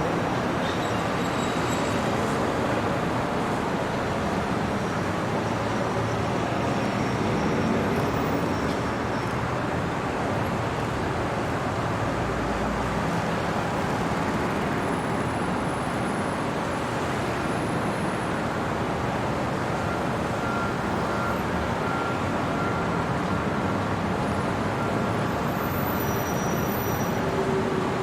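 Steady city traffic noise: a continuous wash of road vehicles, with a few faint high tones here and there.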